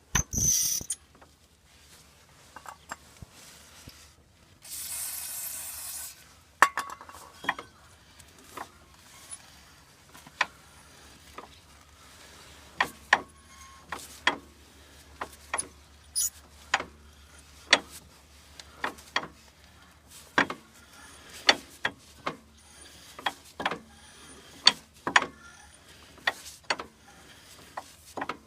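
Hand tools clicking and knocking on metal car parts during repair work, in a run of irregular sharp clicks, about one a second in the later part. A short hiss comes about four and a half seconds in.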